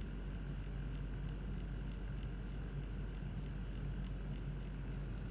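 Permanent-makeup tattoo machine needle working on lips: a steady low hum with a light, even crackle of faint ticks, about three a second. This is what the artist calls the correct sound of the needle touching the lips, the sign of a properly done lip tattoo.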